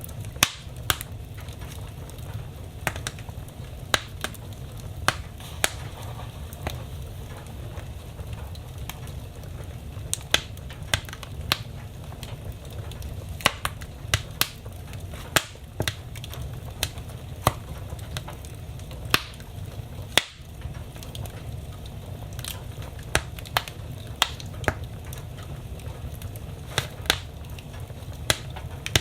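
Wood fire burning in a fireplace, crackling with irregular sharp pops, about one to three a second, over a steady low rumble.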